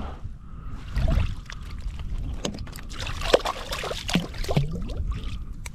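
Water splashing and dripping around a kayak, with scattered clicks and knocks from handling gear and fish on board.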